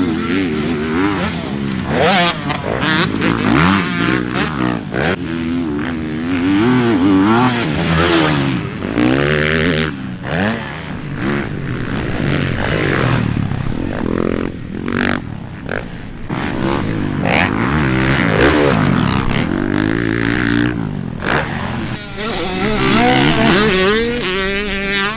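450cc four-stroke motocross bike being ridden hard, its engine revving up and down again and again as the rider opens and closes the throttle and shifts through a rough, bumpy section of track.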